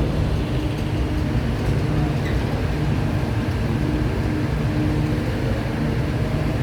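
Steady low drone of heavy engine-driven machinery during cargo unloading, with a humming tone that fades in and out.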